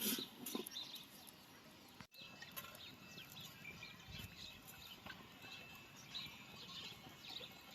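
Small birds chirping: short, faint, scattered high chirps over a quiet outdoor background.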